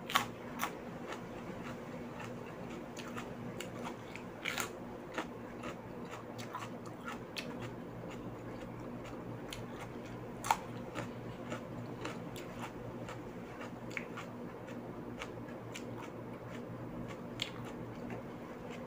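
Close-up eating sounds: a person biting, crunching and chewing raw bell pepper, with scattered short sharp crunches, the loudest just after the start and about ten seconds in. A steady low hum runs underneath.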